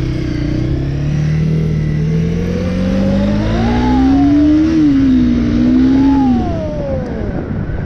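Motorcycle engine accelerating: the pitch climbs steadily for about four seconds, drops sharply at an upshift, holds briefly, then falls away as the throttle is closed near the end.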